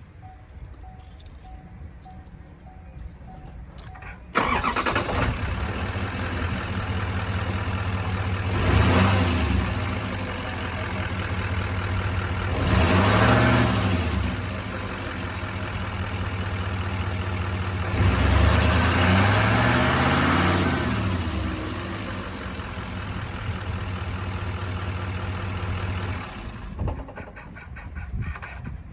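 Chevrolet Silverado 3500 pickup engine starting suddenly about four seconds in after a few faint clicks, then idling. It is revved three times, the third rev the longest, and the engine is switched off near the end.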